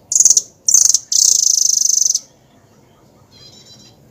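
Songbird calls: three loud, high-pitched rapid trills in quick succession, the last held about a second, then a fainter trilled phrase near the end.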